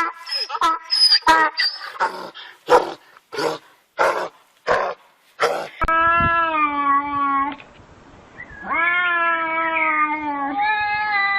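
A run of about ten short, sharp sounds roughly every half second, then a domestic cat yowling in long drawn-out calls, each held steady for one to two seconds.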